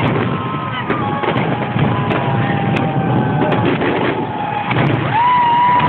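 Fireworks bursting and crackling over a steady background din, with a whistle that rises and then holds about five seconds in.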